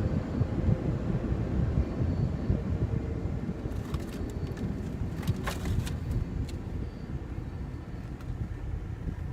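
Automatic car wash machinery rumbling over the car, heard from inside the cabin as a dense low rush that eases a little toward the end. A few light clicks or taps come about four to six seconds in.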